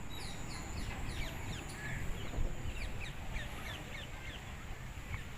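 Birds chirping: many short, high, downward-sliding chirps, a few each second, over a low steady rumble and a thin high whine.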